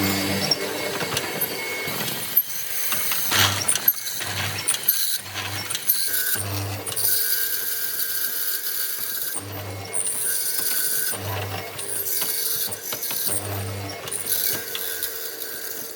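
Workshop tool being worked in short bursts: repeated clicks with a short hum recurring every second or so, and a high whir that starts and stops.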